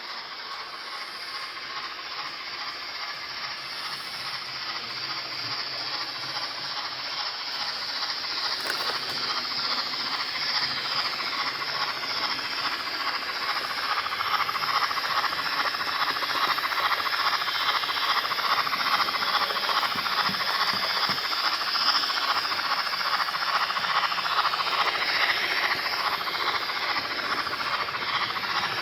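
Sound decoder in a Dapol 00 gauge Gresley A4 steam locomotive model playing a running steam loco's chuffing exhaust and hiss through its small onboard speaker. It grows louder over the first half as the model draws nearer, then holds steady.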